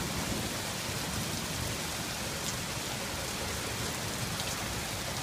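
Heavy rain falling steadily during a thunderstorm, with a low rumble of thunder fading away in the background.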